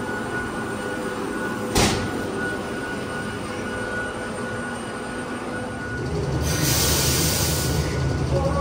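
Inside an old Hakone Tozan Railway electric railcar as it runs: a steady hum with a faint whine, one sharp clunk about two seconds in, and a burst of hiss at about six and a half seconds as a low rumble grows louder.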